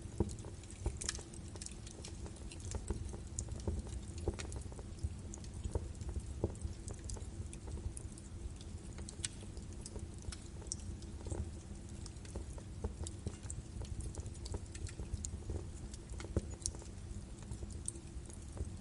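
Birch wood fire burning in a fireplace: irregular sharp crackles and pops over a steady low rumble of the flames.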